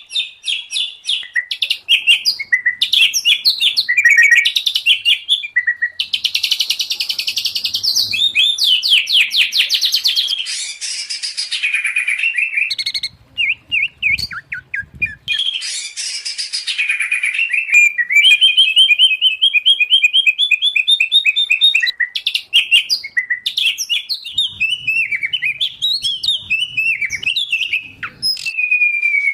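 Songbirds singing loudly and almost without pause, in a mixed recording of white-rumped shama, oriental magpie-robin and greater green leafbird song. Fast trills, repeated chip notes and sweeping whistles run on with a short lull about halfway, and a long falling whistle comes near the end.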